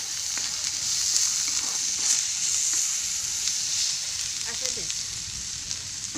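Chicken curry sizzling in a black iron wok over a wood fire: a steady hiss that swells about a second in, with the occasional scrape and click of a steel ladle stirring it.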